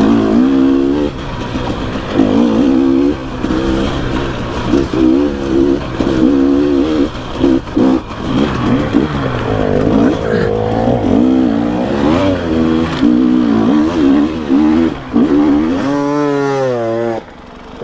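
Dirt bike engine revving up and down over and over as the throttle is opened and closed in short bursts on rough, steep singletrack. Near the end the engine note wavers quickly up and down.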